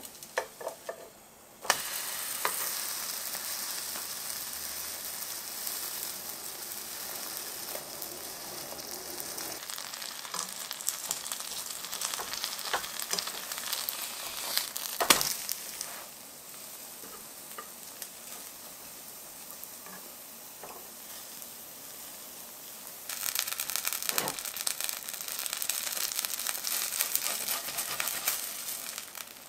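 Hotteok dough frying in a film of oil in a nonstick pan, with a steady sizzle that softens about halfway through and then grows louder again near the end. There is one sharp knock about halfway through, the loudest sound in the stretch.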